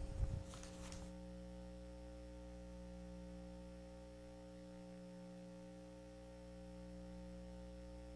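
Steady electrical mains hum on the church's sound system, a low buzz made of several fixed tones. A brief knock and some rustling come in the first second, then only the hum.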